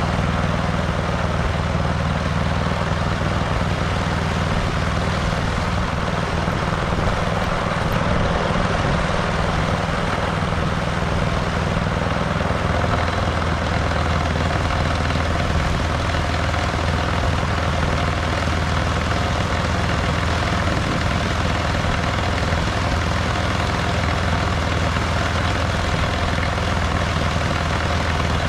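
Snowblower engine running steadily under load, with an even hum and the hiss of snow being thrown.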